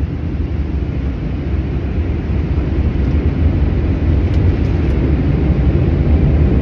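Automatic car wash machinery working over the car, heard from inside the cabin: a steady low rumble and rush that grows slightly louder.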